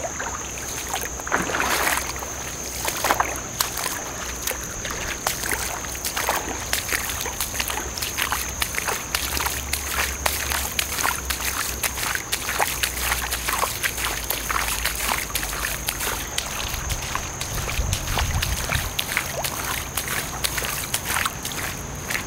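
Footsteps wading through floodwater about eight inches deep on a road, sloshing and splashing with each step in an uneven rhythm.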